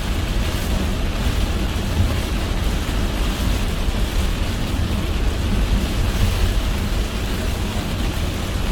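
Car driving on a wet road in heavy rain: a steady low rumble of tyres and engine under a constant hiss of rain.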